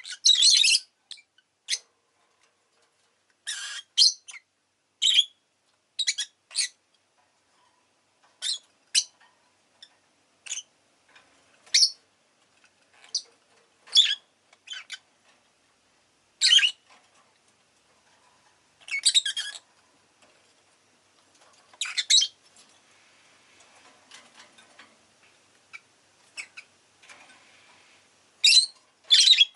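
Rosy-faced lovebird giving short, sharp, high-pitched chirps at irregular intervals, about one every second or so, with a few quick double calls.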